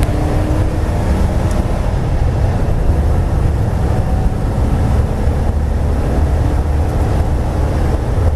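V8 race car engine running at speed, heard from inside the cabin as a loud, steady low drone mixed with wind and road noise.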